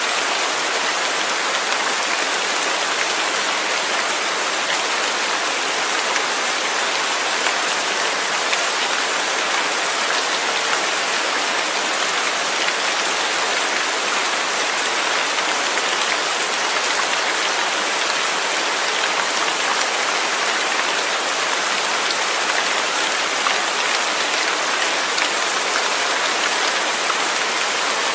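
Steady, heavy rain falling and pattering on a surface, a dense even hiss without breaks.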